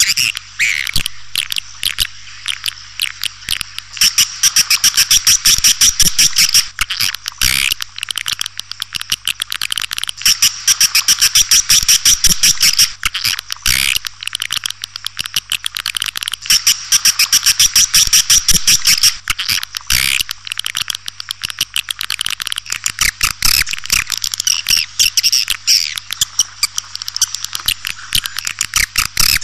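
Recorded swiftlet calls played as a lure for a swiftlet house: rapid high twittering chirps and clicks that swell into loud runs about every six seconds. A steady low hum runs underneath.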